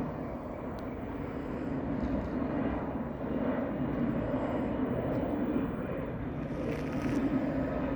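Jet airliner on approach, its engines a steady rumble that swells slightly near the end.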